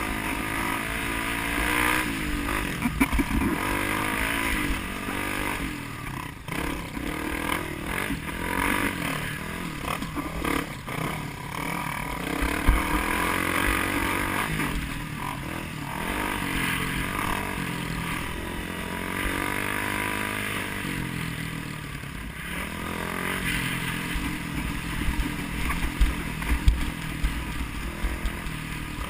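A motor vehicle's engine revving, its pitch rising and falling again and again, with a few sharp louder moments.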